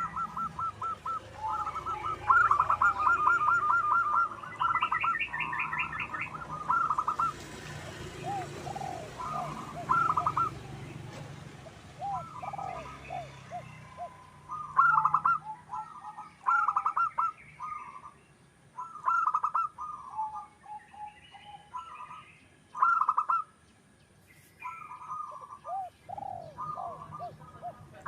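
Zebra doves (perkutut) cooing: repeated bursts of fast, rattling staccato coos with short gaps between phrases, and softer, lower arching notes in between. Faint high chirps of small birds join from about halfway through.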